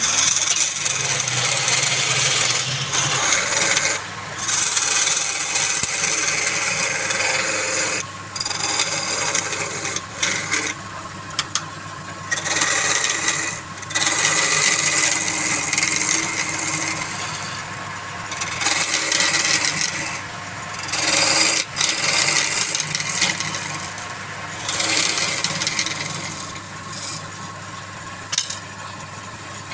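A hand tool working wood spinning on a lathe: a rough hissing sound that comes in passes of a few seconds with short breaks between them. A steady low hum runs underneath.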